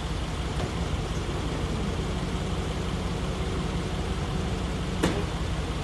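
A vehicle engine idling with a steady low rumble, with a single sharp click about five seconds in.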